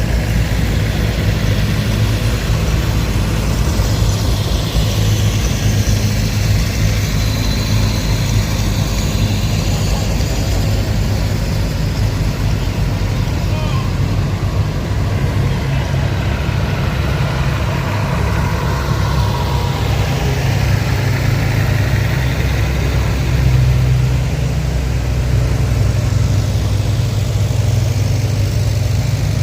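Antique tractor engine running at a steady low speed, a continuous low hum.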